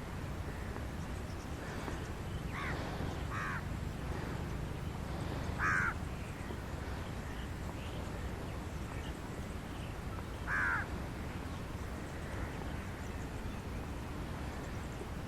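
Birds calling: a handful of short, harsh calls, two of them louder, over a steady low rumble of background noise.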